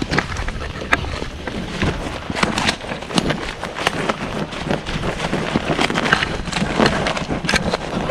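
Close rustling with many irregular clicks and knocks, like handling or movement near the microphone.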